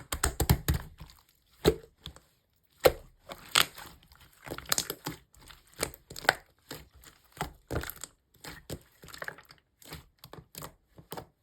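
Slime being squeezed and pressed by hand, giving irregular sharp clicks, pops and crackles, several a second and densest in the first second.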